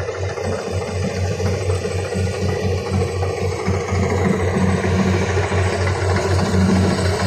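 Kubota combine harvester's diesel engine running steadily with an even, rapid low throb, growing a little louder toward the end.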